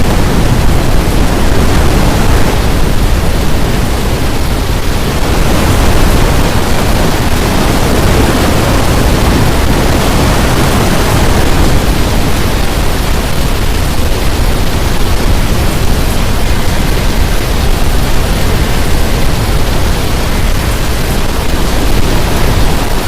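Strong storm wind blowing across the microphone: a loud, steady rushing noise with a deep rumble, rising and falling only slightly.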